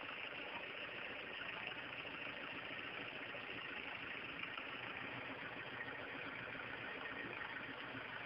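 Off-road jeep-type 4x4's engine running steadily at low revs as it crawls through a trial section.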